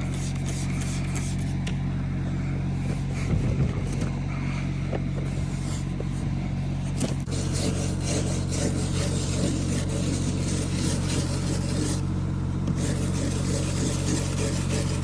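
A steady engine hum runs throughout. From about seven seconds in, scraping and rubbing start over it: a truck's steel fuel tank being scrubbed clean.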